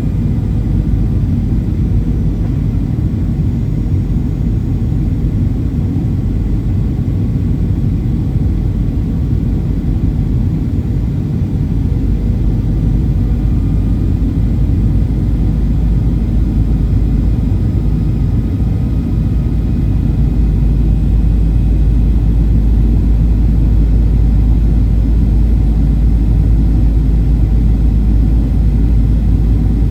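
Cabin noise inside a Boeing 737-800 airliner: a steady low rumble of engines and airflow, growing a little louder about two-thirds of the way through.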